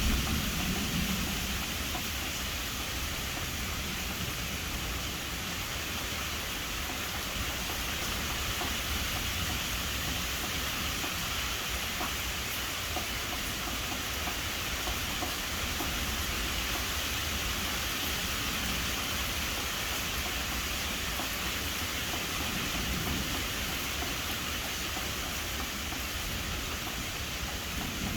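Steady rain hiss with a continuous low rumble of distant thunder underneath, swelling slightly about a second in and again at the very end.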